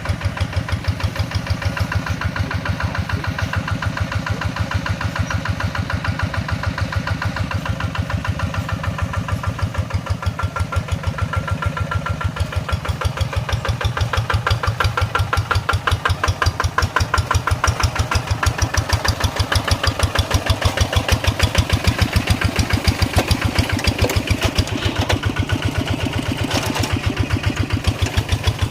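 Tractor engine running steadily with an even, rapid beat, getting a little louder about halfway through.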